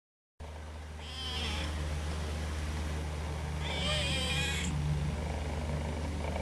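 Domestic cat meowing twice, short high-pitched meows about a second in and again near the middle, the second wavering and falling at the end, over a steady low hum.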